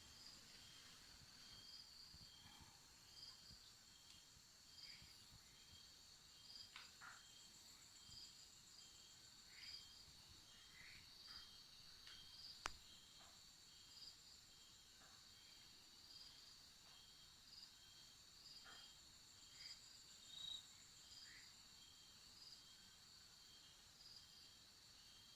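Faint chorus of insects: several steady high chirring tones with an even repeating pulse, with scattered soft knocks and one sharp click about halfway through.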